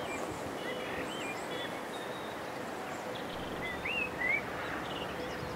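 Birds chirping in short rising and falling calls, a few clustered near the start and two more around four seconds in, over a steady outdoor hiss with a faint steady hum.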